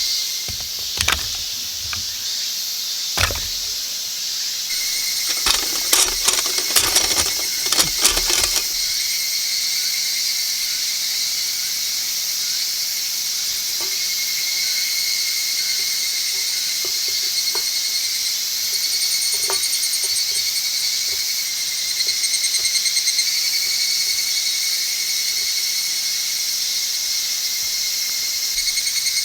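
Insects trilling steadily, a high, pulsing drone over a hiss. In the first nine seconds there are a few sharp wooden knocks and a short run of clattering.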